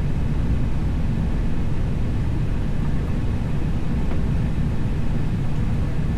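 Steady low rumble inside an airliner's cockpit, from the engines at idle and the aircraft's systems while it waits on the ground before takeoff.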